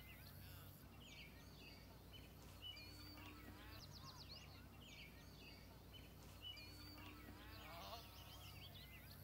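Faint birdsong: many short, high chirps and trills from several birds, with a few lower repeated arching calls, over quiet outdoor background.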